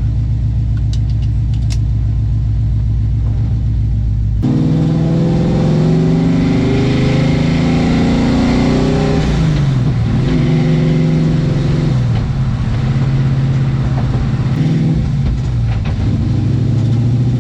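Car engine idling steadily. About four and a half seconds in, after an abrupt change, the car is driving and accelerating, the engine pitch rising and dropping back several times as it goes up through the gears.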